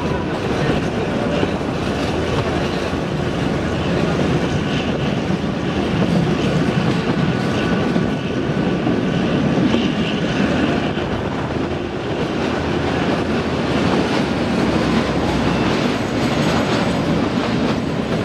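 Kalka–Shimla narrow-gauge toy train running, heard from an open carriage window: a steady rumble and rattle of the wheels on the track.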